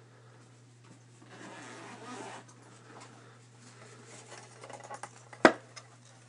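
Soft rustling and small tapping handling noises over a steady low hum, with one sharp knock about five and a half seconds in.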